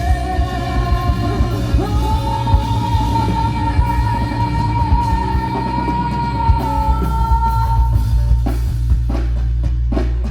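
Live rock band playing the close of a song: singing and a long held note over guitars and drums, then a few hard accented hits from about eight seconds in as the song ends.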